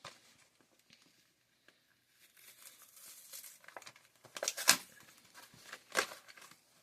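Plastic blister packaging of a boxed die-cast toy car crinkling and rustling as it is handled. Faint clicks come first, then rustling from about two seconds in, with two sharp crackles near the end.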